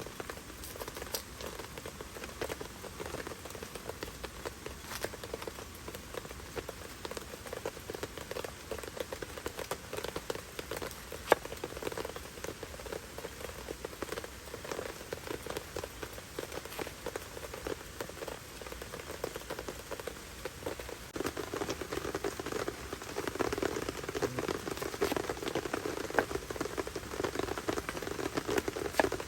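Heavy rain drumming on a tent shelter's fabric: a steady patter of many small drop ticks with one sharper tap near the middle. The rain grows heavier about two thirds of the way through.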